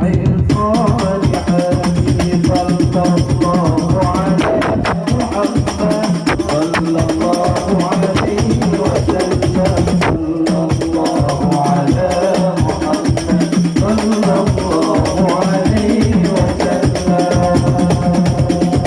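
Devotional sholawat music: fast, steady hand-drumming with jingling percussion under a sung melody.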